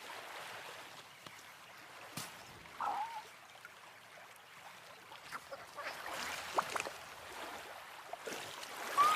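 Faint running-water ambience with a short bird call about three seconds in, another falling call near the end, and a few scattered clicks.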